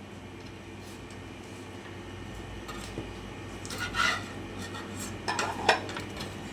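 Kitchenware being handled: a few clinks and knocks of pots, dishes or utensils, the sharpest about four seconds and five and a half seconds in, over a steady low hum.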